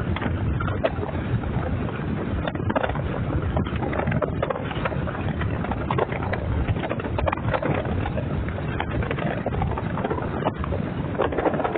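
Road noise and wind from a moving vehicle, a steady low rumble with frequent small knocks and rattles.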